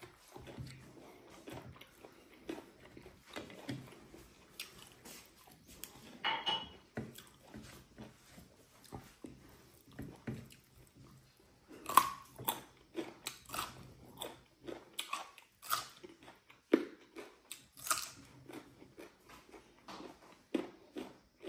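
A person chewing and biting food close to the microphone: irregular wet smacks and crunchy clicks of a mukbang meal of fried pork and rice, a few louder bites about 12 and 18 seconds in.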